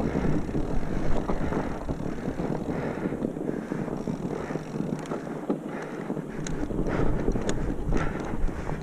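Wind rushing over the microphone while sliding down a snow slope, with irregular scrapes of edges on the snow, more frequent in the second half.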